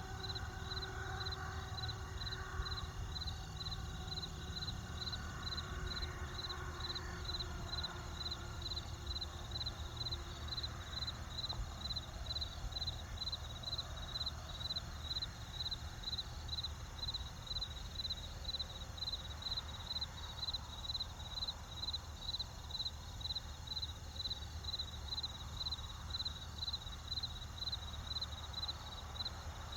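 Crickets chirping in a steady, even rhythm of high chirps, about two a second, over a low steady rumble from the campfire.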